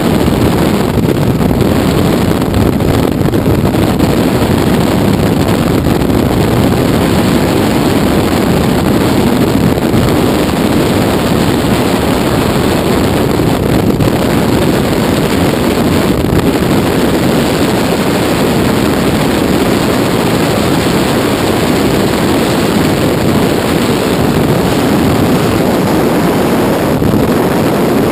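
Helicopter in flight: steady, loud engine and rotor noise mixed with wind rushing over the microphone.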